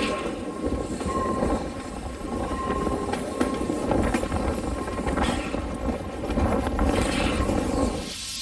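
Train running on the line, a steady rumbling clatter, with wind buffeting the microphone; it cuts off abruptly near the end.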